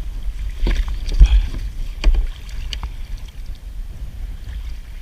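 Several sharp knocks and clatters of a crab pot being handled aboard a kayak after it has come up empty, over a low rumble of wind on the microphone.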